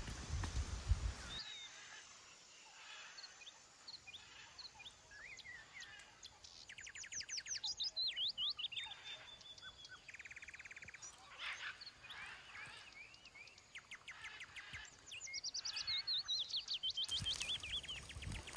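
Several songbirds chirping, with many quick rising and falling whistled notes and two rapid trills in the middle. A low rumble sits under them at the start and comes back near the end.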